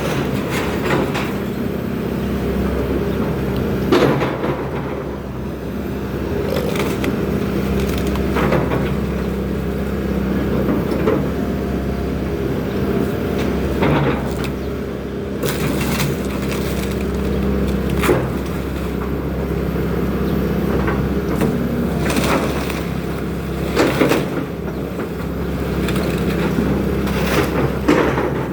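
Excavator engine running steadily while the machine tears down a house, with sharp cracks and crunches of breaking wood every few seconds.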